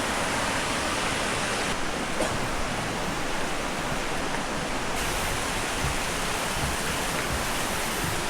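Steady rush of a tall waterfall: an even, unbroken hiss of falling water.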